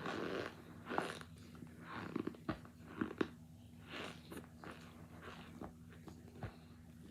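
A person biting and chewing hard chunks of cornstarch mixed with baby powder, close to the microphone: sharp crunches and cracks come every second or so, with a noisy bite at the start and two close cracks about three seconds in, over a steady low hum.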